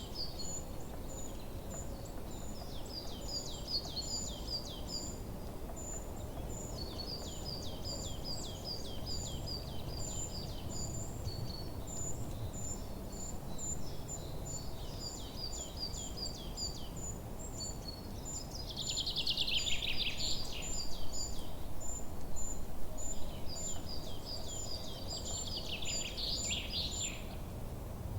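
Several songbirds singing in a forest: a thin high chirp repeated steadily, runs of quick falling notes, and two louder, denser song phrases in the second half, over a low steady background noise.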